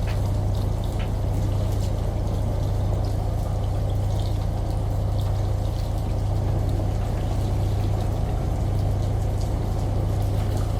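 Steady mix of a washing machine's low hum with running, pouring water and scattered light drips.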